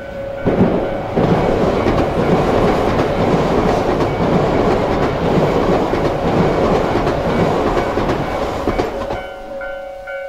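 Yamagata Shinkansen 'Tsubasa' passing through a station at speed without stopping: a loud rush of wheels on rail and churned snow comes up sharply about half a second in, holds, and falls away around nine seconds in as the train clears.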